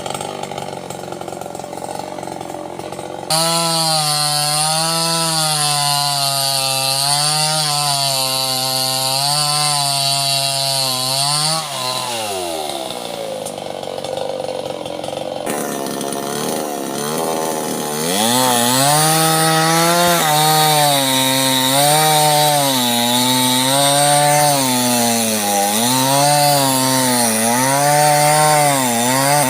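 Small two-stroke chainsaw cutting sengon wood, its engine pitch wavering under load. About halfway through the pitch drops off as the throttle is let go, then the saw revs up again and goes back into the cut.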